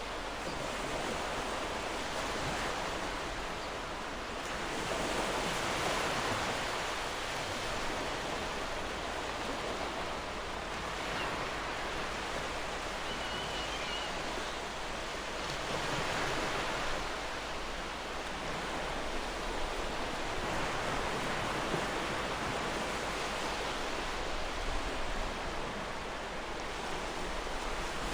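Gentle ocean waves washing in, swelling and falling back about every ten seconds. A faint short bird chirp sounds about halfway through.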